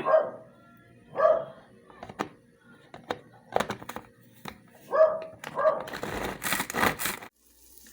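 A dog barks four times, short single barks, among clicks and knocks of kitchen utensils. Near the end a burst of hissing, bacon hitting a hot pan, drops to a faint steady sizzle.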